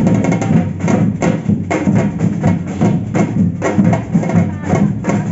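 Samba percussion band playing a driving batucada groove: a steady, fast rhythm of drums with sharp wood-block-like strikes over a deep bass-drum pulse.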